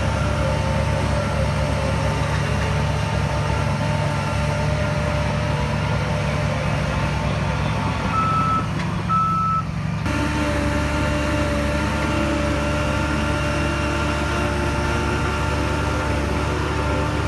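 Heavy diesel earth-moving machine running steadily with a reversing alarm beeping over it; two beeps stand out clearly about eight seconds in. The engine's sound changes abruptly about ten seconds in.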